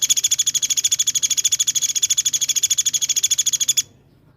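A songbird singing a very fast, even trill of sharp high notes, the rapid 'tembakan' burst used to train caged songbirds. It stops abruptly shortly before the end.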